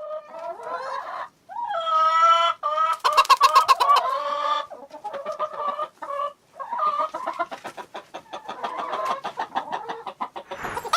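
Domestic hen clucking and cackling: a series of pitched calls, a drawn-out squawk about two seconds in, then fast repeated clucks, settling into softer clucking after a short pause.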